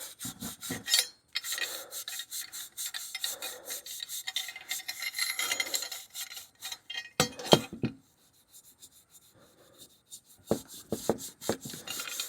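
Coarse abrasive scuff pad scrubbed by hand over a stainless steel motorcycle muffler, a rasping sound in quick strokes of about three a second. There are a few louder knocks about seven seconds in, then a quieter pause before a few more short strokes near the end.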